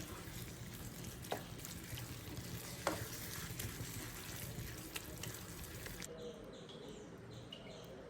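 Fish sizzling as it fries in oil in a pan, a steady hiss with two sharp clicks, like a utensil touching the pan. About six seconds in the sound changes abruptly to a quieter, duller hiss.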